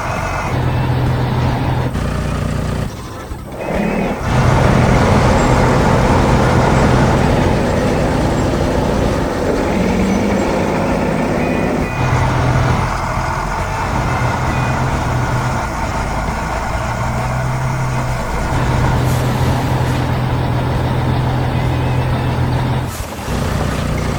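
Heavy construction-vehicle engine sound effects: a steady, loud diesel-like drone with a noisy rumble over it, dropping away briefly twice.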